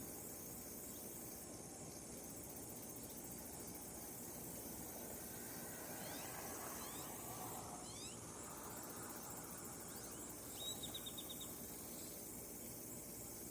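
Insects trilling steadily outdoors in a high, finely pulsing chorus. A few short falling chirps come through in the middle, and a quick rattling trill of rapid notes sounds near the end.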